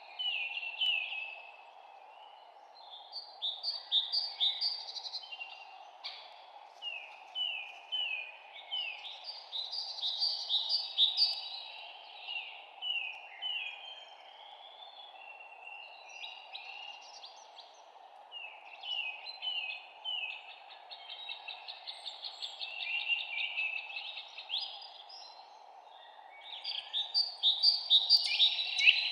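Songbirds chirping in repeated phrases of quick, falling notes, each phrase a few seconds long, with short gaps between them. Under the birds runs a steady, even background hiss.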